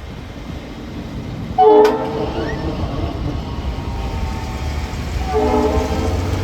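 A train's multi-note air horn sounds two short blasts, about a second in and again about five seconds in, over the steady low rumble of a train on the rails.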